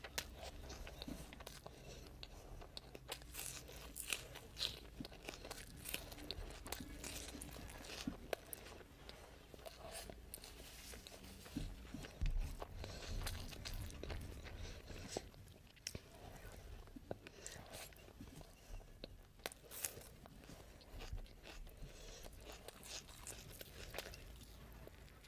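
Close-miked eating sounds: a person chewing mouthfuls of mutton biryani, with many small wet mouth clicks scattered throughout.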